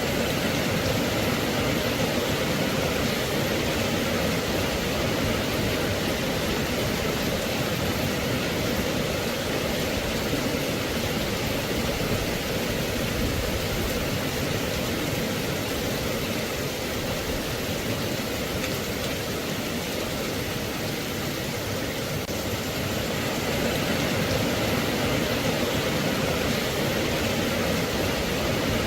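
Steady rain falling, an even hiss with no break or single drops standing out.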